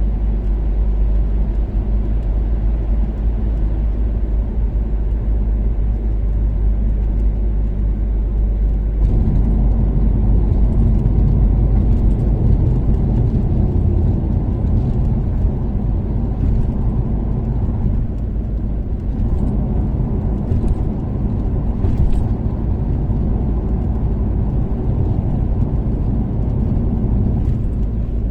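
Toyota Caldina's 3S-GTE turbocharged four-cylinder engine running with tyre and road noise while cruising on an expressway. The engine note is steady at first, then grows louder and rougher from about nine seconds in as the car speeds up or goes onto a coarser surface. A few light ticks come through later.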